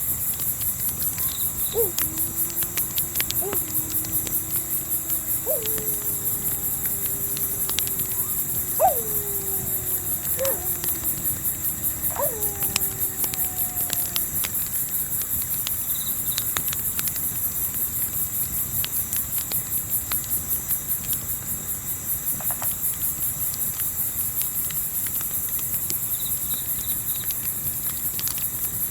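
Crickets chirping in a fast, steady pulse, with a campfire crackling now and then. Through the first half, several wolves howl in the distance: long overlapping howls that each rise sharply, slide down and hold a low note.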